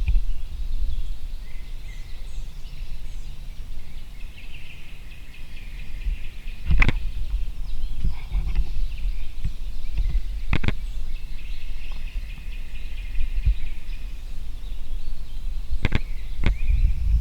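Wild birds chirping faintly over a steady low rumble, with a few sharp clicks or knocks.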